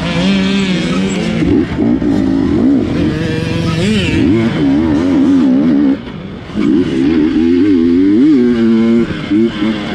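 Dirt bike engine, a GasGas, revving up and down in quick throttle blips, its pitch wavering rapidly. It drops off briefly about six seconds in, then picks up again.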